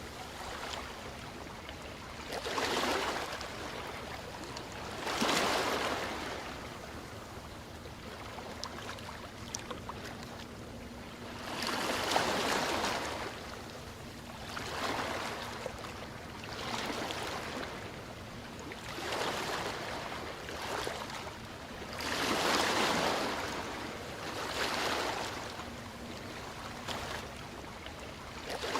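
Ocean waves washing on a shore, the surf swelling and fading every two to three seconds.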